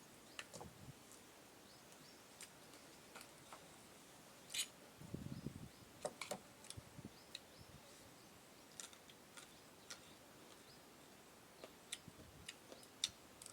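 Quiet eating sounds: scattered small clicks and mouth noises from someone eating, with a brief low rumble about five seconds in.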